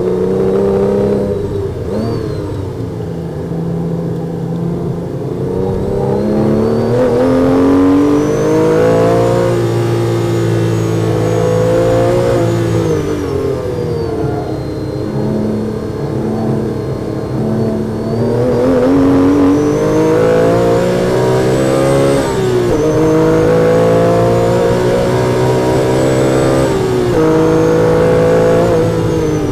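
Porsche 997 GT3's flat-six engine heard from inside the cabin at racing speed. It revs up through the gears, with a quick drop in pitch at each upshift. Around the middle the revs fall away under braking and downshifting for a corner, then it pulls hard again with two more upshifts in the second half.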